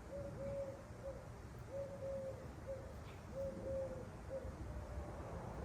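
A dove cooing: low, repeated phrases of a longer note followed by a short one, about every second and a half, over a faint steady low rumble.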